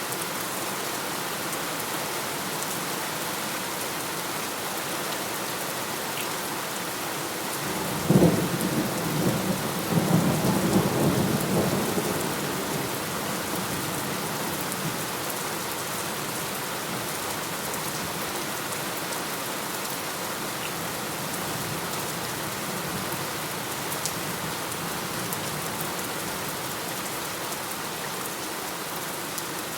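Steady heavy rain falling, with a thunderclap about a quarter of the way in that cracks suddenly and rolls on as a low rumble for several seconds before fading back into the rain.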